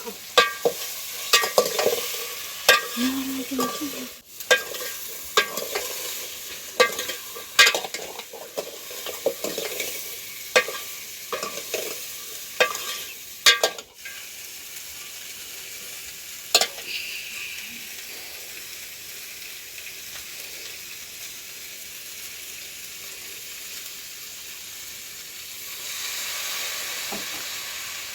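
Food frying in a pan and being stirred with a utensil: about a dozen sharp scrapes against the pan in the first half, then a steady sizzle that swells slightly near the end.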